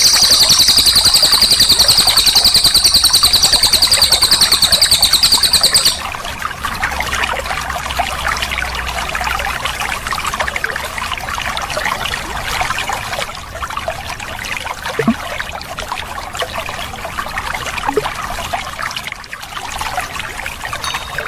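Cililin songbird singing a loud, rapid rolling trill that stops abruptly about six seconds in. After that, a steady trickle of flowing water continues with faint scattered bird chirps.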